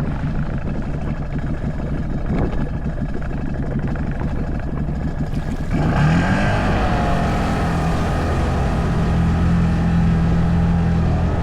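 CFMoto ATV engine running. About six seconds in it revs up sharply and then holds a steady, higher pitch under load.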